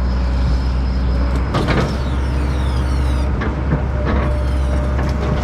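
Heavy diesel excavator engine running steadily, with short crackling noises about a second and a half in and again around three and a half seconds.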